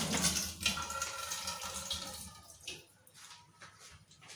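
Cooking oil being poured from a bottle over a tray of seasoned sardines, a splashing pour that tails off about two and a half seconds in.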